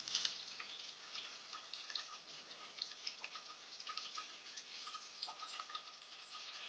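Small songbirds giving many short, scattered chips and ticks.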